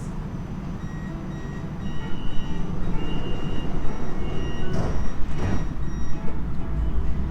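MRT train cab with a steady low rumble and three evenly spaced beeps about a second apart, the train's door-closing warning tone. A couple of brief hisses follow, and near the end a deeper rumble builds as the train starts to move.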